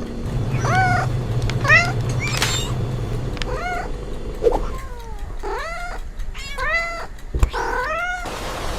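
Cats meowing over and over, about ten short meows in a row, some close together.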